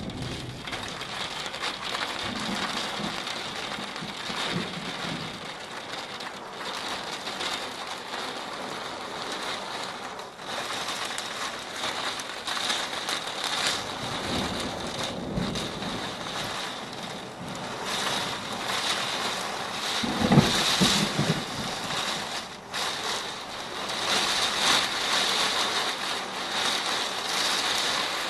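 Heavy rain falling steadily in a thunderstorm, with thunder rumbling low several times; the loudest roll comes about two-thirds of the way through.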